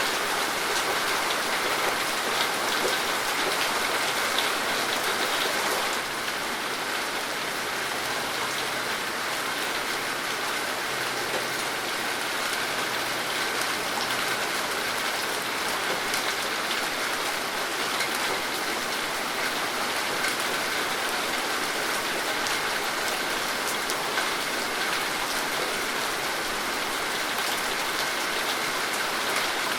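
Steady rain falling, an even hiss with the patter of many individual drops; it gets slightly quieter about six seconds in.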